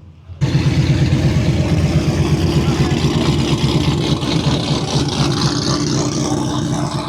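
Loud, high-performance car engine running close by, cutting in suddenly about half a second in and holding steady with a rapid, choppy exhaust pulse.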